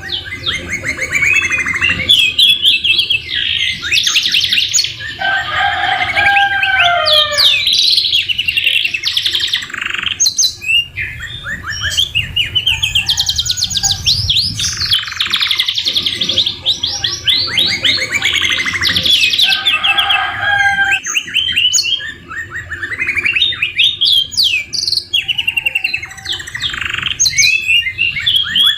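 Domestic canaries singing a continuous song of fast rolling trills and sweeping whistles, with lower whistled phrases about five seconds in and again about twenty seconds in. The song is filled with phrases learnt from the white-rumped shama (murai batu).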